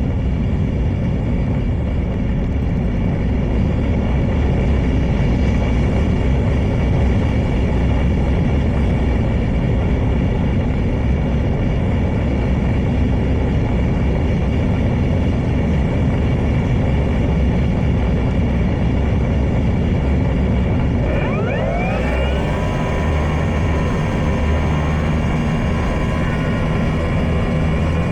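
Heavy wind buffeting the microphone, with the whine of an E-flite Draco RC plane's electric motor and propeller underneath. About three-quarters of the way through, the motor whine rises sharply in pitch, then holds steady.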